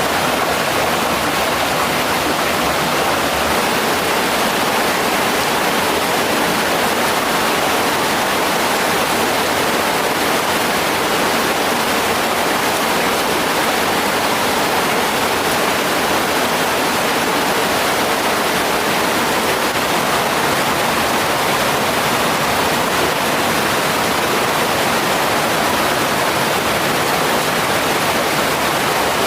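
Mountain stream water rushing, a steady, loud and unbroken noise.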